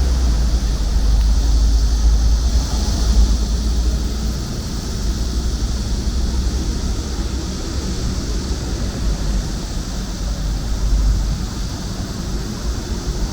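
Steady high-pitched chorus of cicadas on a midsummer night, slightly louder about two to three seconds in, over a loud, steady low rumble.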